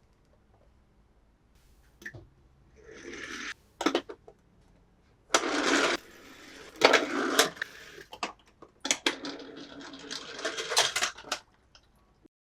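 Plastic toy cars and packaging being handled: bursts of rustling and clattering with sharp clicks, starting about two seconds in and stopping shortly before the end.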